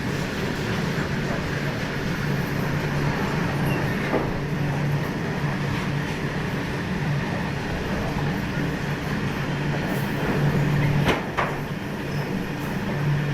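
Freight train loaded with steel rings rolling by, a steady rumble with a low hum and a few sharp clanks, about four seconds in and twice near eleven seconds.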